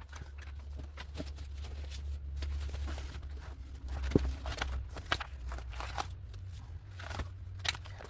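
Paper rustling and being handled as cards and pages are leafed through, with scattered light clicks and taps over a steady low hum.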